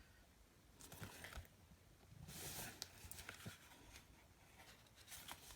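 Faint rustling and a few light taps as a paper card is handled, close to silence.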